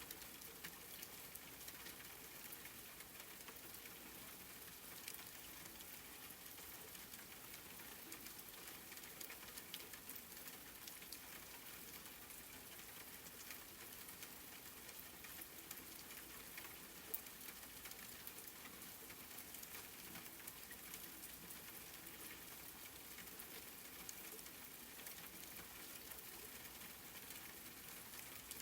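Steady, faint rain with many small drop ticks, one a little sharper about 17 seconds in.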